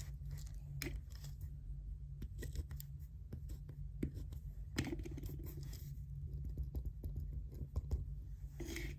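Pen writing on paper: short scratchy strokes and small taps, with a steady low hum underneath.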